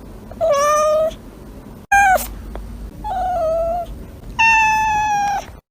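A cat meowing four times: long, drawn-out meows with a short, falling one about two seconds in.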